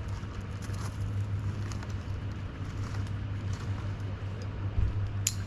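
Truck engine idling steadily, with a single sharp click about five seconds in.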